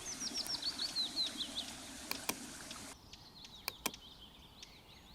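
A small bird singing a fast trill of high, downward-slurred chirps that steps lower in pitch, over forest ambience. Fainter chirps and a few sharp clicks follow, and the background hiss drops abruptly about three seconds in.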